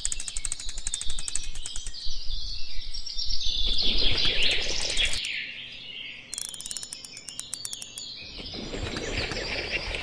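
Birds chirping and calling, with many quick falling notes. A fast, high trill is heard near the start and again about six seconds in.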